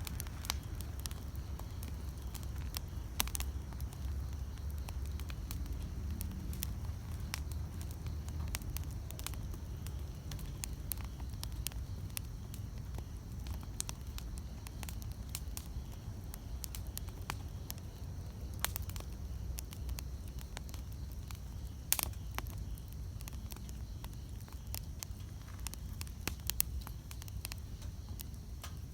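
Wood campfire burning, with irregular crackles and sharp pops over a steady low rumble; a few pops stand out louder than the rest.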